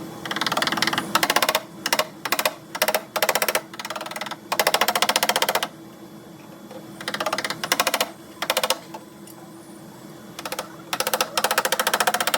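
A power tool hammering rapidly on sheet-metal bodywork in short stop-start bursts, each from a fraction of a second to about a second long, with a longer pause in the middle.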